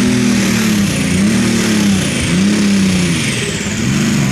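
Pulling tractor's engine surging, its pitch rising and falling about once a second instead of holding steady, with a faint high whine sliding down. It doesn't sound good: the engine is in trouble on the starting line and never gets on top of it.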